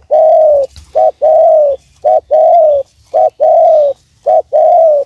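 Spotted dove cooing close by, a short note followed by a longer one, the phrase repeated about once a second, five times over.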